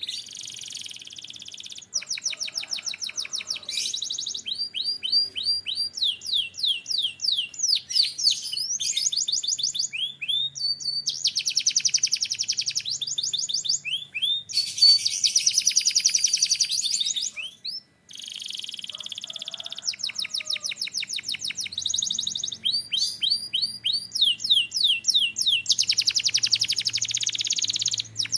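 Male canary singing a long continuous song of fast repeated sweeping notes and dense rolling trills, one phrase running straight into the next, with a brief pause about two-thirds of the way in.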